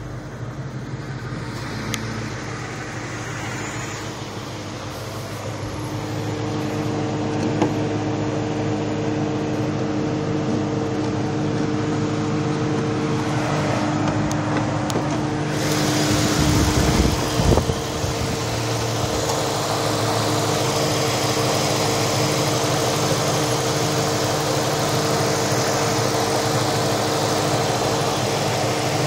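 2003 Ford Mustang Cobra's supercharged 4.6-litre V8 idling steadily, muffled from inside the cabin at first and then brighter and hissier at the open engine bay from about halfway. A few knocks and handling noises come about two-thirds of the way in.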